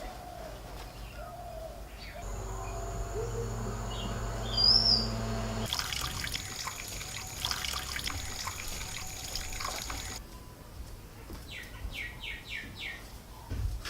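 Water running and splashing for a few seconds, with small birds chirping; a quick run of five or six short falling chirps near the end.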